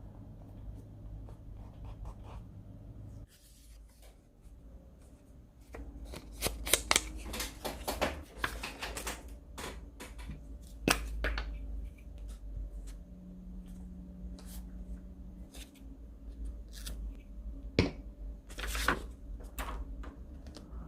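Paper and stationery being handled: crisp rustling and crinkling with small clicks and taps. It is sparse at first and busy from about six seconds in.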